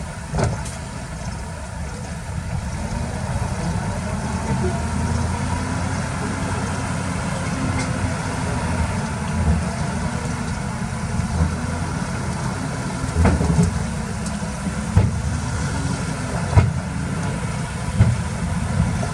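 A heavy diesel engine running steadily, with a few sharp knocks, the loudest about two-thirds of the way through.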